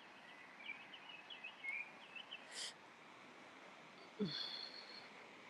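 Faint birdsong: a quick run of short chirping notes from a small bird, ending in a brief high hiss. About four seconds in comes a short, different sound that falls in pitch.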